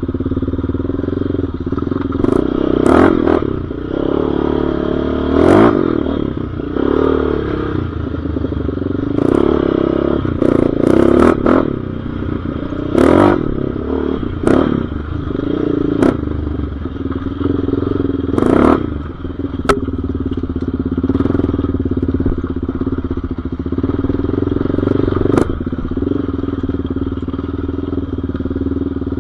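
Single-cylinder off-road engine running steadily while being ridden, with repeated short sharp clatters through it.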